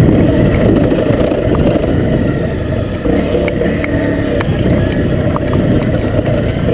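Honda CRF250L's single-cylinder engine running steadily as the dirt bike rides along a loose, sandy trail, with a few light ticks over the engine noise.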